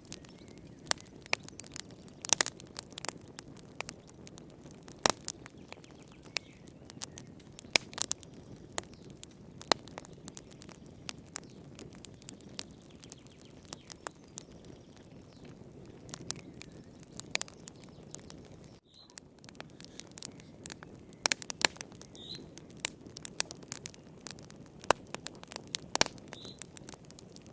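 Wood fire in a fireplace crackling: irregular sharp pops and snaps over a steady low rush of burning, with a split-second dropout about two-thirds of the way through.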